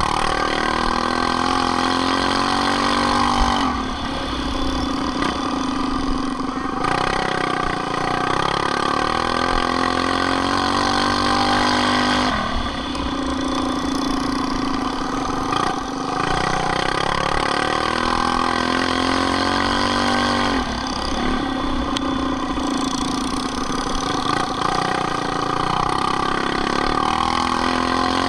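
Small minibike engine racing at high revs, its pitch dropping off and then climbing back again about every eight seconds as the throttle is eased and opened again.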